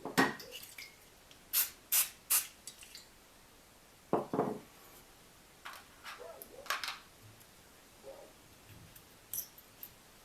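Irregular clicks, taps and clinks of small metal parts and hand tools being handled during engine work, including three sharp taps in quick succession about two seconds in.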